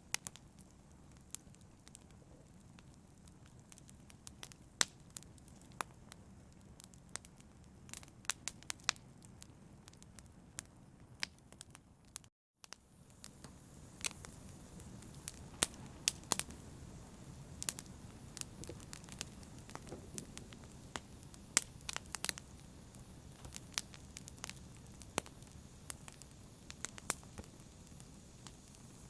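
Wood campfire crackling: a low steady hiss of burning with frequent sharp pops and snaps. It cuts out completely for a moment about twelve seconds in, then the hiss comes back a little louder.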